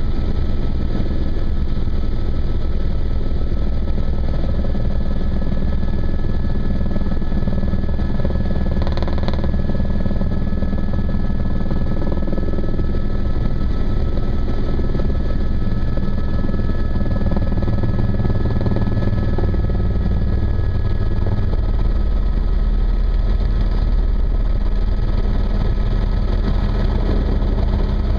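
Helicopter in flight heard from inside the cabin: a steady, loud rotor and engine rumble with a thin, steady high whine over it.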